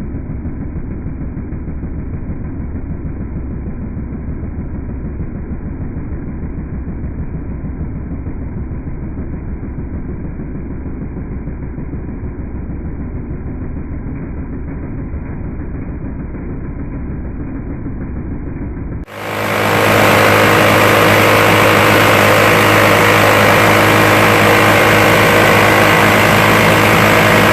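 A steady low engine-like rumble, then about two-thirds of the way through a minigun, an electrically driven rotary-barrel machine gun, opens fire abruptly in one long continuous burst, heard as a loud, even buzz that is still going at the end.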